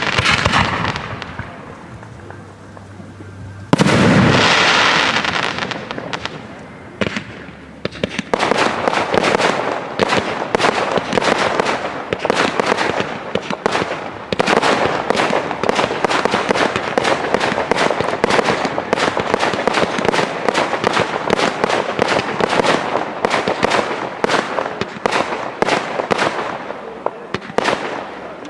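Aerial fireworks display: a big burst about four seconds in fades out over a few seconds, then from about eight seconds a dense, rapid barrage of bangs and crackling keeps going.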